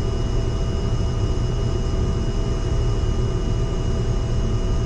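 Combine harvester running with its threshing rotor and cleaning fan engaged: a steady, even low rumble with a few faint steady whining tones over it.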